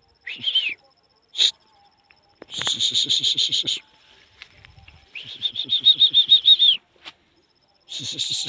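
High-pitched chattering animal calls: four bursts of rapid pulses, each about a second long, with short pauses between them.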